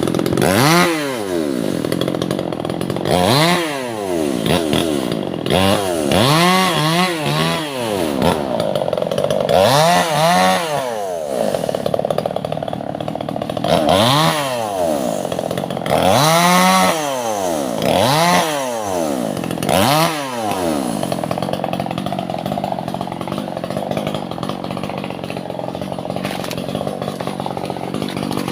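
Chainsaw working through albasia (sengon) wood, its engine revving up and falling back over and over, a rise and fall in pitch every couple of seconds. For the last several seconds it runs at a steadier, lower pitch.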